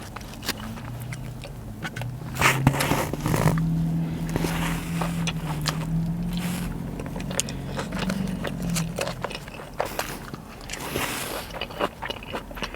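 Close-up chewing and biting on a sushi roll, with many small clicks and crackles. A low steady hum runs under it from about a second in until about nine seconds.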